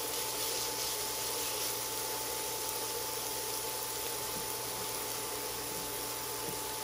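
Sliced onion and minced garlic sizzling gently in oil in a nonstick pan: a steady soft hiss, with a thin steady tone behind it.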